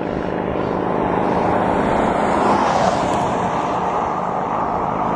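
Steady wind and road noise on the camera's microphone during a road bike ride, swelling briefly about two and a half seconds in.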